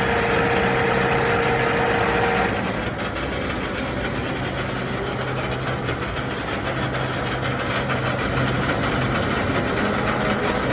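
Model 165 screw-cutting lathe running under power with a steady mechanical hum. A higher steady whine cuts off about two and a half seconds in, and the machine runs on slightly quieter.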